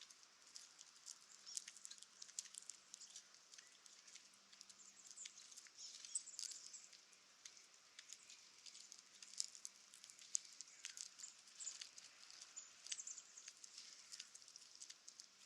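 Faint, irregular ticking and crackling of a small animal rustling, many sharp little clicks scattered through, over a faint steady hum.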